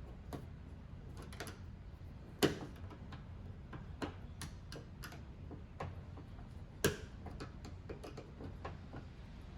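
Flat screwdriver clicking and tapping against the metal retaining nut of a car power antenna as it is worked loose: irregular light ticks, with two sharper taps about two and a half seconds and seven seconds in, over a low steady hum.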